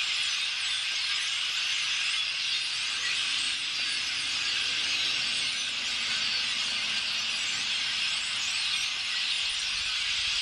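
A large flock of birds calling all at once: a dense, continuous chorus of many overlapping high chirps and squeaks, loud and even throughout.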